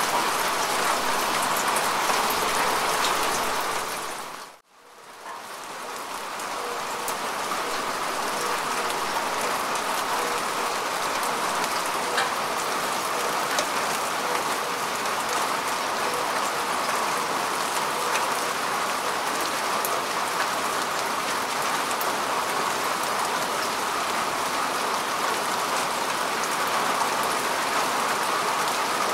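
Steady rain falling on grass and earth, a dense hiss dotted with individual drop ticks. About four and a half seconds in it dips briefly almost to silence, then fades back up.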